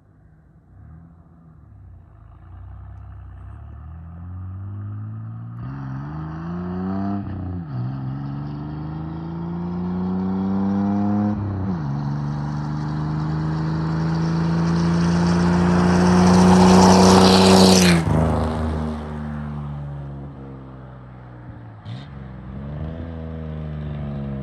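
Ford 300 inline-six (4.9 L) with a straight-piped 3-inch exhaust and no catalytic converter, accelerating hard. The engine note climbs, drops back at two gear changes about 7 and 11 seconds in, and is loudest about 17 seconds in. It then cuts back sharply, and the revs rise again near the end.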